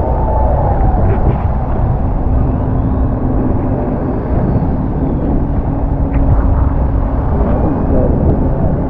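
Speedboat engines running steadily under rushing noise, with a steady hum that comes in about two seconds in.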